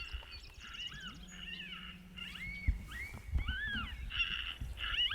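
Coyote yips and short howls: a run of high cries, each rising and then falling in pitch, coming closer together in the second half.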